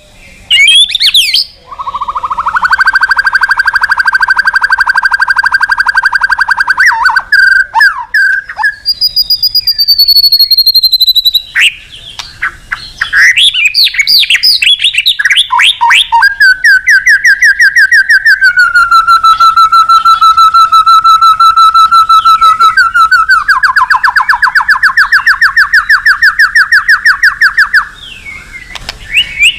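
White-rumped shama singing loudly: long, fast rattling trills of several seconds each, broken up by shorter sweeping whistled phrases.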